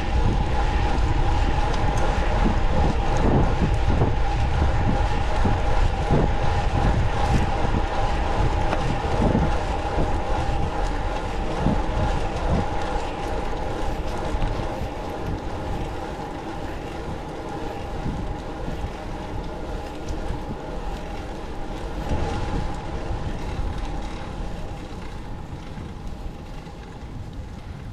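Steady heavy rumble with a held high whine, slowly fading away.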